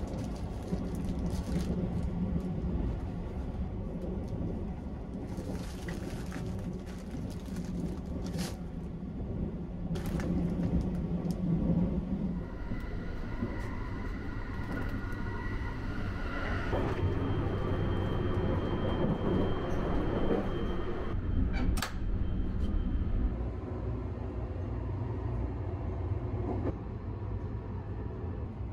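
Sunrise Express 285-series electric sleeper train running on the rails: a steady low rumble, with a pitched electric motor whine that rises and steps up about halfway through, and a few sharp clicks.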